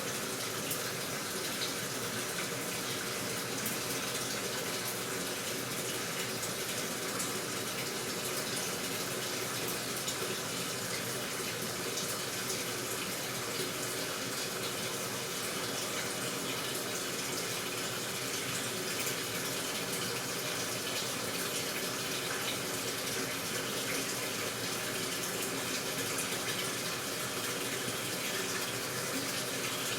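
Water gushing steadily into the tub of an AQUA washing machine as it fills.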